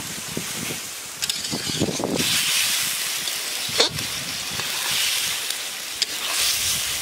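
Potol and masala sizzling in a steel kadai while a spatula stirs and scrapes against the pan, with a sharp clink of the spatula on the pan about four seconds in.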